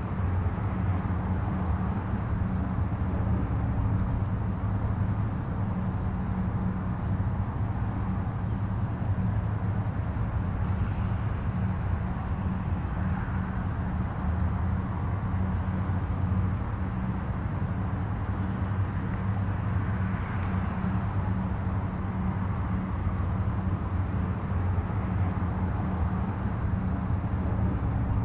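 Distant highway traffic: a steady low rumble and tyre hiss from passing vehicles, with faint swells as individual vehicles pass.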